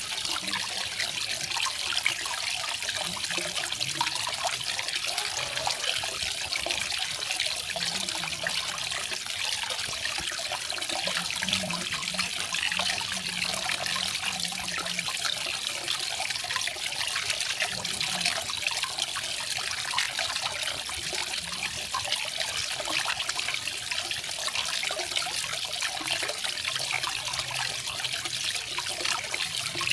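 Small garden waterfall: water splashing and trickling steadily over rocks into a pool.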